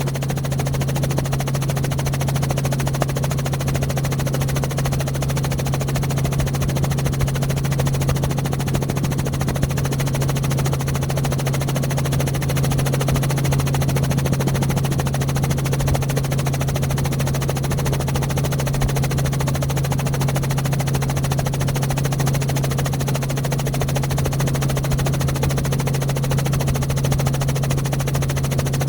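An engine running steadily: a constant low drone with a rapid, even pulsing and no change in pitch.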